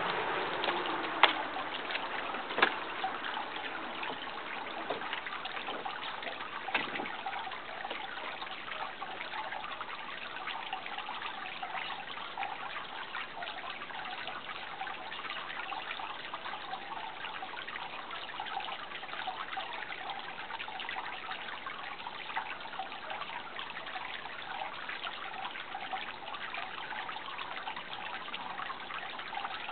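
Water trickling steadily, a fine continuous babble. A few sharp clicks stand out in the first seven seconds, the loudest about a second in.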